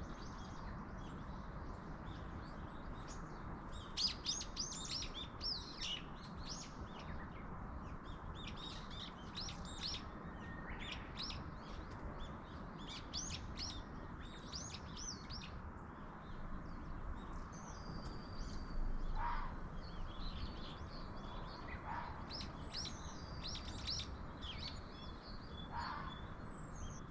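Small songbirds chirping and twittering in quick, repeated bursts, with a few short lower calls later on, over a steady background hiss.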